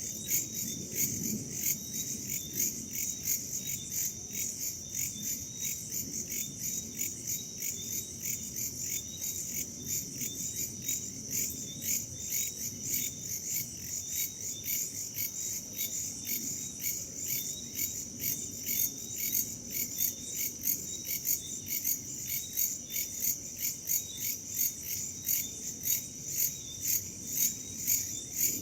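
Chorus of crickets and other insects chirping in a steady, rhythmic pulse, with a soft low rush of wind beneath.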